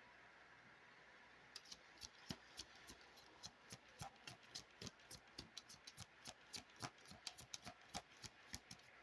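Faint card shuffling by hand: a quick run of soft clicks and taps from a Lenormand deck, about three to four a second, starting a second and a half in.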